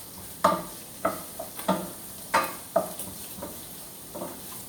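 Vegetables stir-frying in oil: a spatula knocks and scrapes against the pan about seven times, once every half second or so, each knock ringing briefly. A steady sizzle runs underneath.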